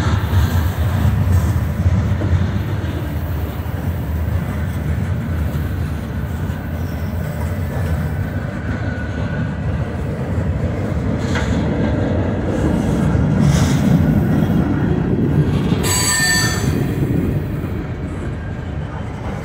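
Freight train cars rolling steadily past a grade crossing: a continuous low rumble of steel wheels on rail with a few clacks. A brief high-pitched wheel squeal comes late on.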